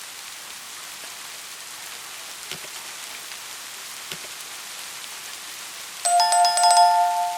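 Steady rain falling with a couple of soft drip taps. About six seconds in, a loud two-tone chime-like ringing starts and carries on to the end.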